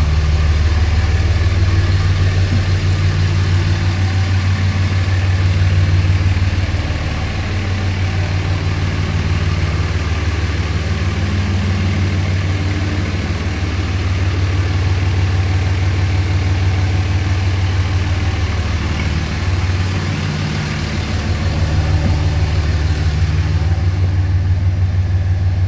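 2006 Dodge Ram 2500's 5.9L Cummins inline-six turbo diesel idling through an aftermarket exhaust, a steady low rumble that swells and eases a little now and then.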